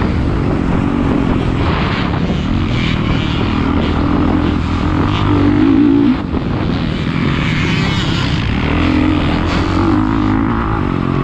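450cc motocross bike engine running hard, its pitch rising and falling as the throttle is worked, with a short dip as the throttle is rolled off about six seconds in.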